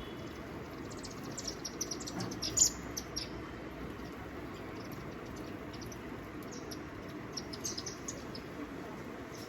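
Small birds chirping in quick, high, short notes, in one flurry a couple of seconds in and another near the end, over a steady background hiss.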